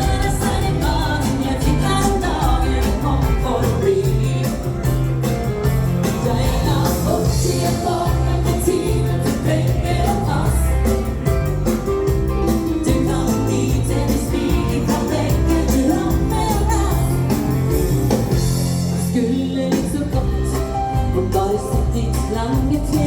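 Dance band music played live with a steady beat: bass, drums and guitar under a woman singing.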